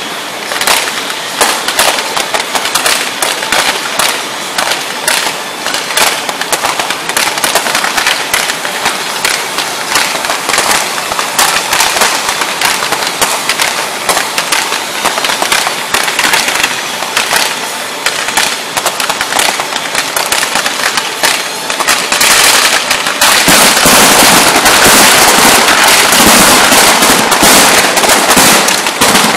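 Fireworks going off in a rapid, dense run of crackling bangs as sparking fountains and rising comets fire. About 23 seconds in, it swells into a continuous, louder wall of noise.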